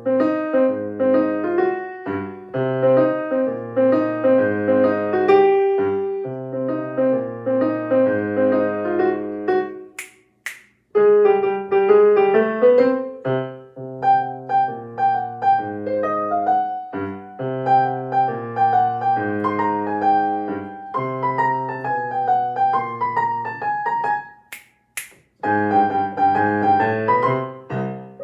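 Solo piano playing a jazzy, swaggering minor-key piece. It stops twice for a pair of finger snaps, about ten seconds in and again near the end, which are the piece's written percussive snaps.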